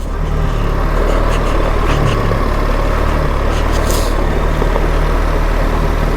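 BMW R 1300 GS boxer-twin engine running steadily as the motorcycle rides along, under a steady rush of wind and tyre noise.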